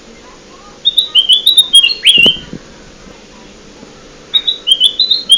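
Kutilang emas bulbul song played as a bird-lure call: two quick runs of bright, chirping notes, the first starting about a second in and the second near the end.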